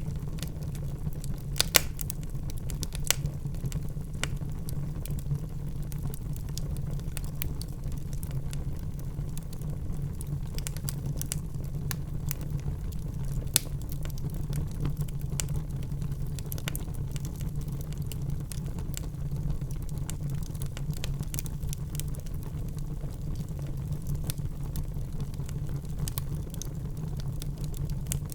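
Wood fire burning in a fireplace: a steady low rumble of flames with scattered sharp crackles and pops from the logs, a few louder snaps about two, three and thirteen seconds in.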